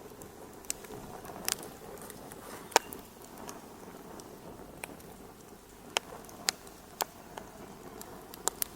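Wood fire crackling in a fireplace: sharp, irregular pops over a soft steady hiss, the loudest pop about three seconds in.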